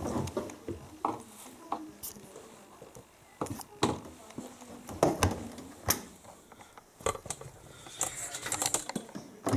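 Irregular clicks and knocks from the washing machines being handled by hand during setup.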